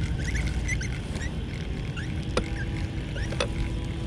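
Steady low rumble of wind on the microphone, with small birds giving short rising chirps several times and two sharp clicks in the second half.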